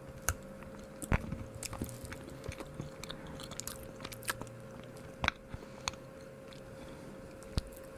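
A person chewing a bite of a chocolate bar close to the microphone, with scattered small wet mouth clicks.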